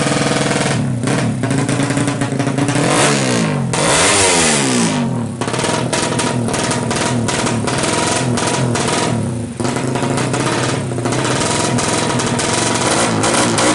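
Suzuki Satria FU motorcycle engine, bored out to 200cc, revving up and down with a choppy, sputtering note. It is running unevenly, a sign that the engine's tuning is off for the wet conditions.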